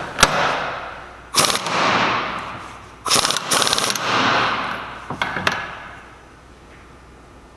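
Impact wrench hammering in about four short bursts, a second and a half to two seconds apart, tightening a Salisbury differential's pinion nut to crush the collapsible spacer and build pinion bearing preload.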